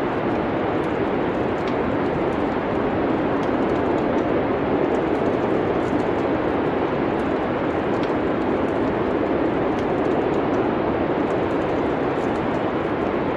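Steady wind noise of a winter snowstorm, with faint, scattered crackles of a wood fire.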